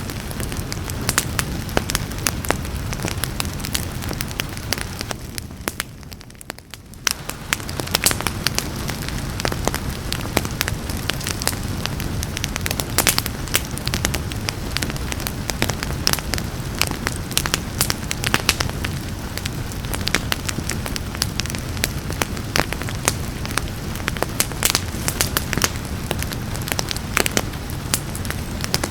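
Wood fire crackling, with many sharp pops and snaps over a steady low rumble and a soft hiss of rain. The sound briefly fades and comes back about six seconds in.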